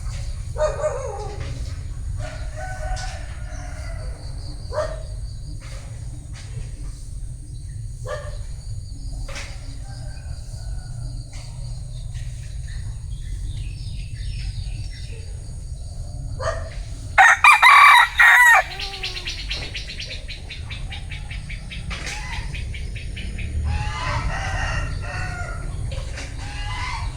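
A bantam rooster crowing once, loudly, about two-thirds of the way through, among shorter scattered clucks and calls from chickens. A steady low rumble runs underneath.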